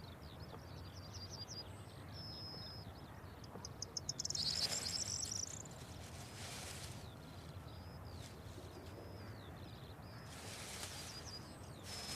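Small birds chirping and twittering in quick repeated high notes throughout a background of outdoor ambience. Three brief rushing noises break in, the loudest about four seconds in, others near seven and eleven seconds.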